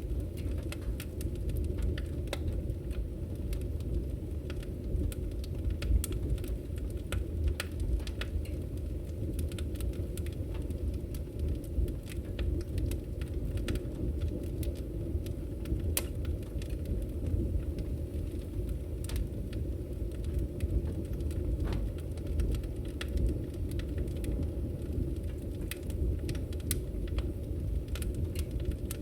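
Wood fire crackling in a fireplace: a steady low rumble from the burning logs with many small, sharp pops and snaps scattered irregularly throughout.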